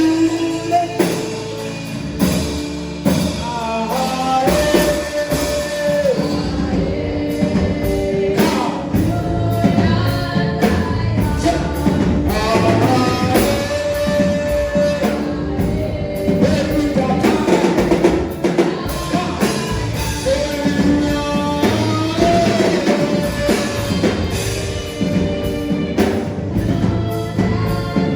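Live worship music: singing over a band with drum kit and a steady beat.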